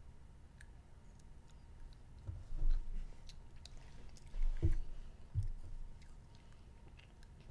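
A child chewing chewy candy grass, with small wet mouth clicks and a few dull low thumps about two and a half and five seconds in.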